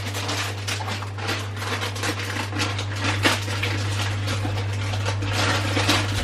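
Rustling and light clatter of kitchen items being handled, over a steady low hum.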